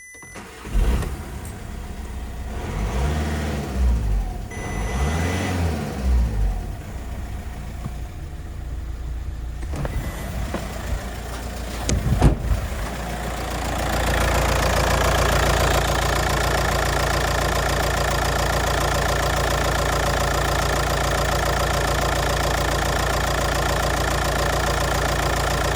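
Audi A3 8P's 2.0 TDI (BMM) four-cylinder diesel engine running: revved up and back down twice about three and five seconds in, then idling steadily, louder from about fourteen seconds in.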